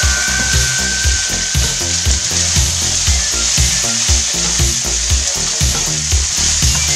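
Carrot and beef strips sizzling in a hot wok as a wooden spatula stirs them, over background music with a steady beat.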